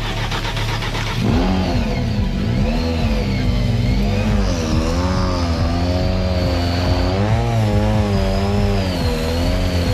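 A World Rally Car engine revving hard, its pitch climbing and dropping again and again as the car is driven at speed, starting about a second in over a steadier lower engine note.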